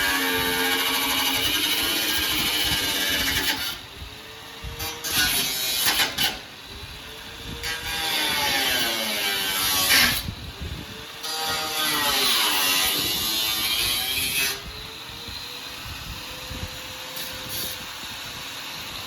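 A high-speed power tool working on car sheet metal. Its pitch sags and recovers as it is pressed into the work and eased off, with short breaks between passes and a steadier, lighter run near the end.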